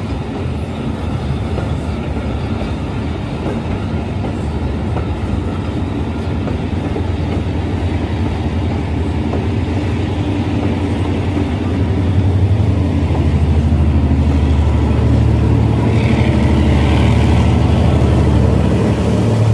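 A passenger train rolls past with a continuous rumble of coaches and wheels on the rails. In the last third a diesel locomotive's deep engine drone grows stronger as it comes level.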